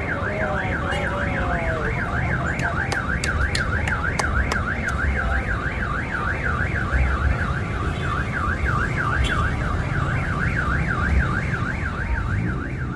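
An electronic alarm siren warbling rapidly up and down, about four sweeps a second, over a steady low background rumble. A quick run of sharp cracks comes about three to five seconds in.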